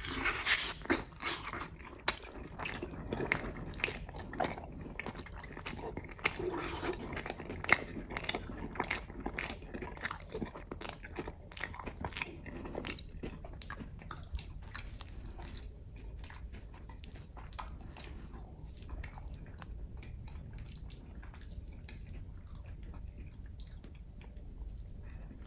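A person biting into and chewing a slice of pizza close to the microphone: crunchy, wet chewing clicks, loudest and busiest in the first half, then softer and sparser.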